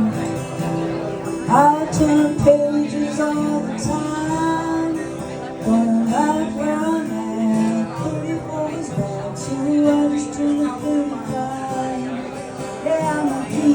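Live country band music, a melody line sliding up into its notes over sustained chords.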